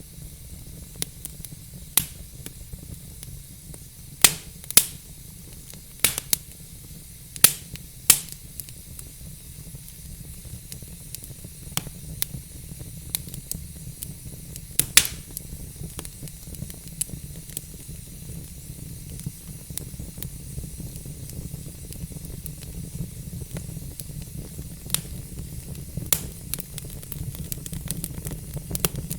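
Log fire crackling, with irregular sharp pops and snaps over a steady low rumble and hiss. The loudest pops come in a cluster in the first third.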